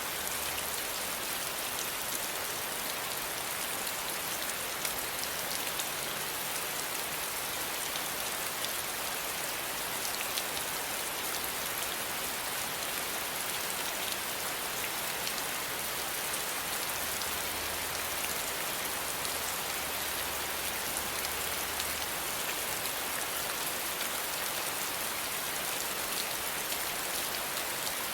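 Steady rain falling and pattering on surfaces, a constant even hiss with fine drop ticks.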